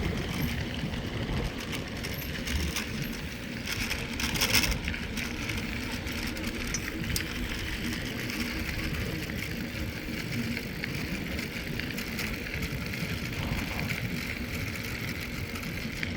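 Mountain bike rolling along a trail of compact sand and fine gravel: steady tyre crunch and rumble, with wind on the microphone, and a brief louder clatter about four and a half seconds in.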